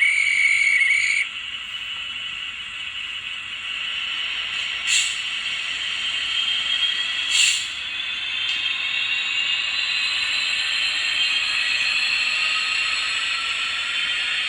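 N gauge DCC sound-fitted model locomotive running on the layout, its decoder running sound playing from a small speaker over a steady hiss. It opens with a loud, short, high tone lasting about a second, and from about halfway through its pitch slowly rises. There are two sharp clicks, one about five seconds in and one about two and a half seconds later.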